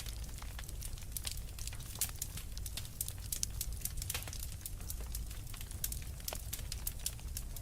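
Wood fire crackling, with frequent irregular sharp pops and snaps over a steady low rumble of blizzard wind.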